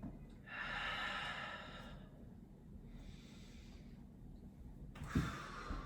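A person's audible breathing during a yoga flow: one long breath about half a second in and another about five seconds in, with two soft thumps near the end.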